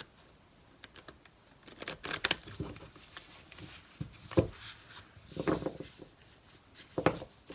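Tarot cards being shuffled and handled: a handful of soft card slaps and rustles at irregular intervals, a second or more apart.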